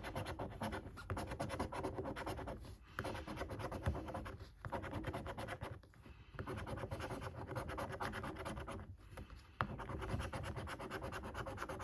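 A scratchcard's scratch-off panel being rubbed off in quick back-and-forth strokes, in runs of a second or two with short pauses between them.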